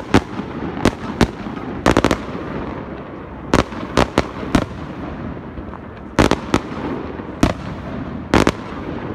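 Aerial fireworks bursting: about a dozen sharp bangs at uneven intervals, several coming in quick pairs or clusters, over a steady rumble of background noise.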